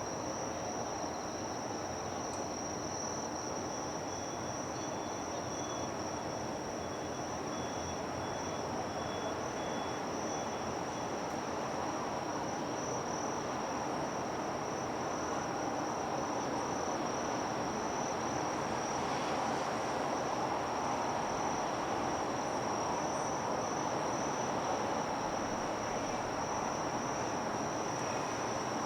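Insects singing in one steady, unbroken high-pitched chorus, over a continuous haze of outdoor harbour and city noise that grows slightly louder about halfway through.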